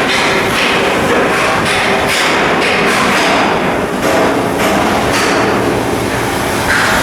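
Continuous loud metalworking din of hull block assembly in a shipyard, with rapid repeated metal hammer strikes.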